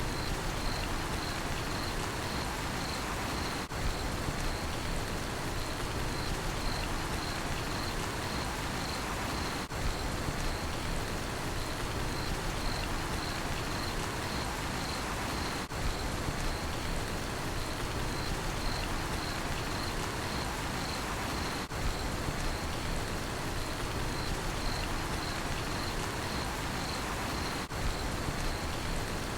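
Steady rain falling, with a cricket chirping in an even, unbroken rhythm of about one and a half chirps a second. A brief break in the sound comes about every six seconds.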